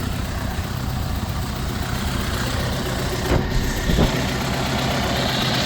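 The Model A's four-cylinder engine, converted to a 4-port overhead valve head, idling steadily. Two short clicks sound about three and a half and four seconds in.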